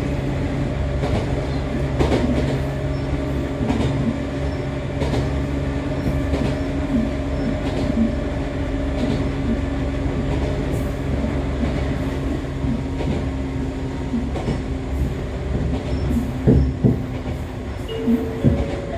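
Interior running sound of an Echizen Railway MC6101-series electric railcar, the unit singled out for its unusual running noise. Its MT54 DC traction motors and gears give a steady hum with several fixed tones at an even speed, while the wheels click over rail joints, with a few louder knocks near the end.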